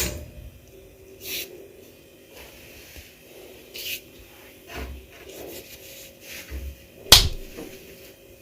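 Household cleaning sounds: scattered knocks and short swishing rubs, with a sharp knock at the start and a louder one about seven seconds in.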